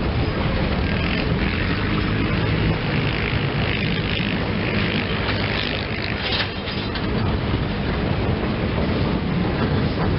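Passenger train running on the rails: a steady rumble with wheel and track noise and a few short knocks partway through.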